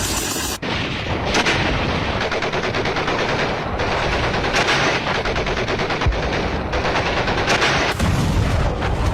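Sustained rapid automatic gunfire, machine-gun fire with shots following closely one on another and several louder volleys throughout; the sound changes abruptly about half a second in.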